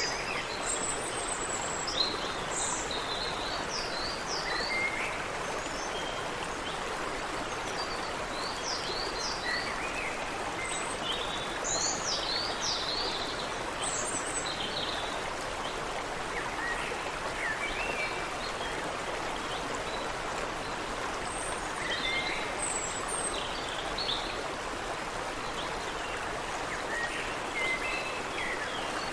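Steady rush and babble of water running in a small stream, with songbirds chirping and calling throughout in short, high notes and quick twittering phrases.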